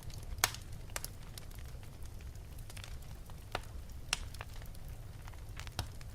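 Wood fire burning in an open fireplace: a low, steady rumble under scattered sharp crackles and pops, the loudest about half a second in and another about four seconds in.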